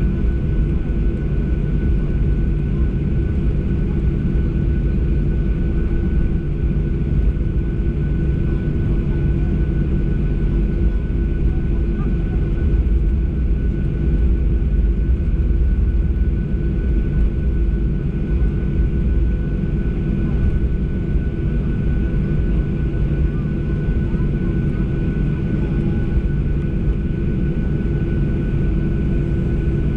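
Boeing 737 cabin noise on the ground before takeoff: the engines run at low power with a steady low rumble, a fixed-pitch hum and a thin high whine that holds level throughout.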